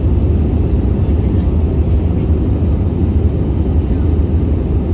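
Loud, steady low rumble of a vehicle in motion, even throughout with no distinct events.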